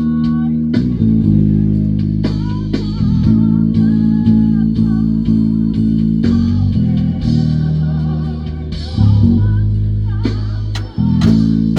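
Band music with a prominent electric bass guitar holding long low notes that change every second or two, under a wavering higher melody line.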